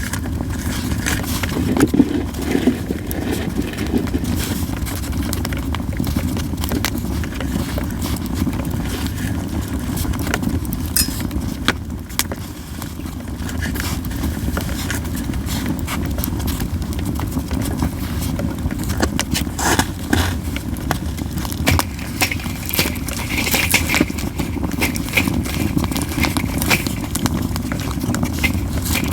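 Japanese yew wood burning in a campfire, crackling with scattered sharp pops over a steady low rush.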